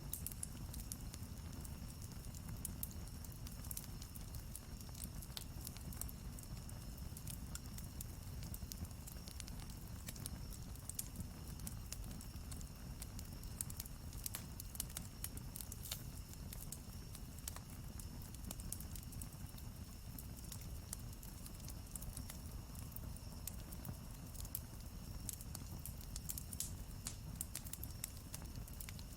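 Campfire burning, with a steady low rumble of the flames and frequent small, irregular crackles and pops from the burning wood.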